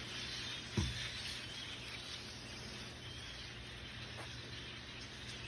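Many birds chirping faintly over a steady outdoor background hiss, with one short thump about a second in.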